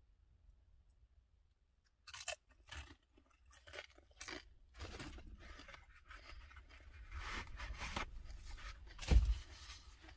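Close-up crunching and chewing of chips, with paper-towel rustling, beginning about two seconds in as a run of short crackles. One louder thump comes near the end.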